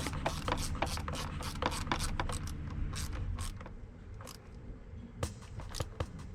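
Rapid mechanical clicking, several sharp clicks a second, growing sparser and quieter about halfway through.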